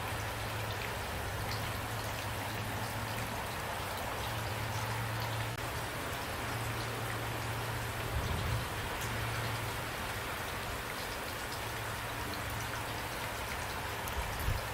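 Steady rain falling, an even patter with a low constant rumble underneath. Short low thuds come about eight seconds in and again near the end.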